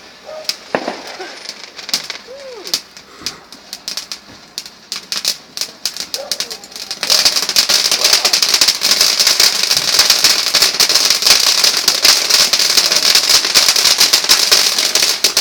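Fireworks crackling: scattered sharp pops for the first seven seconds or so, then about seven seconds in a dense, continuous crackling sets in and keeps going.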